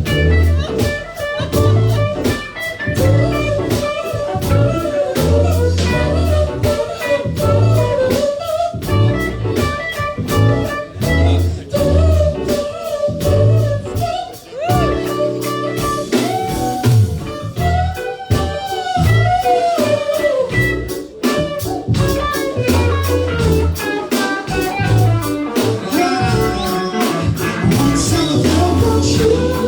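A band playing a blues-rock passage: drum kit keeping a steady beat under bass and guitar, with bending melodic lines over the top.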